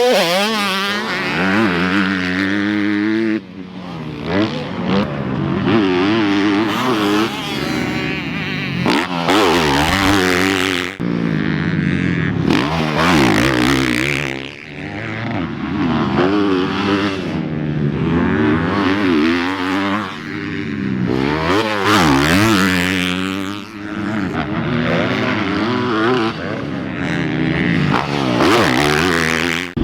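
Motocross dirt bikes on a track, their engines repeatedly revving up and falling off as they ride.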